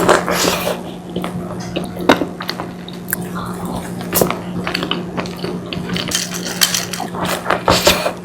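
Close-miked handling and eating of a packaged brownie: sharp crackles and clicks of the plastic wrapper and chewing, over a steady low hum.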